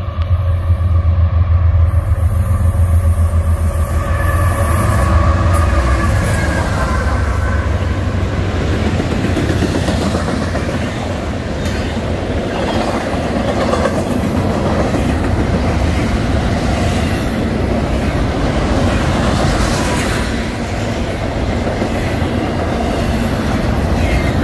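Diesel-hauled freight train passing close by: the locomotives' heavy rumble comes first, easing after about four seconds, then the cars roll past with a steady clatter of wheels over the rail joints.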